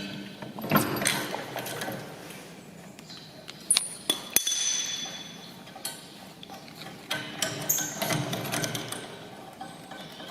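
Hand tools working bolts on a steel mower frame: scattered metal knocks and clinks, with a short metallic ring about four seconds in.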